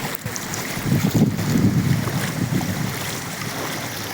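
Wind buffeting the microphone over the rushing noise of heavy rain and floodwater on a road, gusting hardest about a second in.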